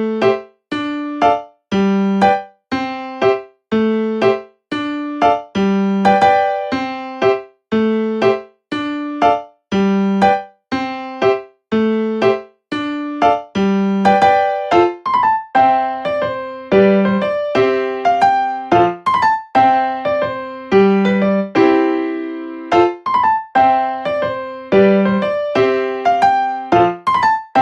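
Background music: a simple keyboard melody in a piano sound, single struck notes each ringing away before the next. About halfway through, the notes come faster and overlap.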